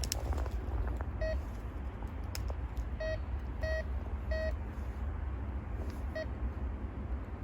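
A series of short, same-pitched beeps at uneven intervals, about six of them, over a steady low rumble.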